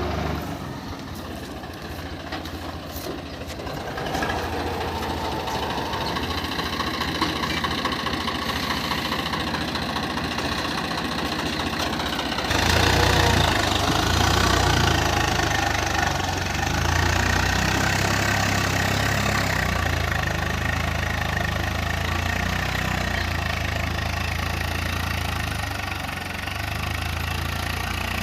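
Swaraj 855 FE tractor's three-cylinder diesel engine running steadily while pulling a seven-tine chisel plough. About twelve seconds in it becomes louder and deeper.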